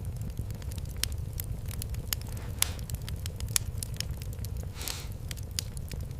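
Wood fire crackling, with irregular sharp pops and snaps over a steady low rumble of the flames and two brief hissing swells.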